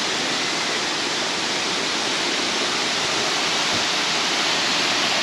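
A waterfall rushing: a steady, even hiss of falling water that does not change.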